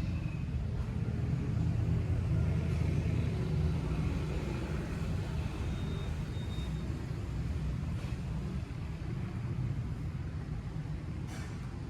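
Steady low rumble of a motor vehicle, heavy in the bass and unchanging throughout.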